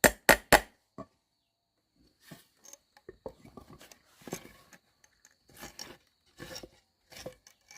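Hand work on wood: a few sharp knocks at the start, then a run of irregular scraping and rustling strokes. A faint steady high whine sits underneath.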